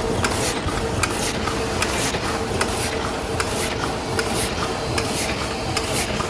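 Paper cup making machine running: a steady hum under a fast, regular clatter of clicks, about three a second.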